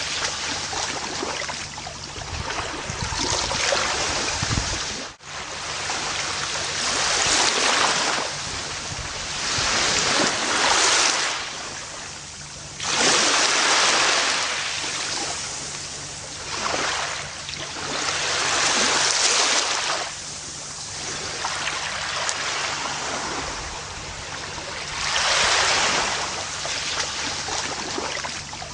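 Gentle ocean waves washing onto a beach, each surge swelling and fading every few seconds. About five seconds in, the sound dips sharply for a moment.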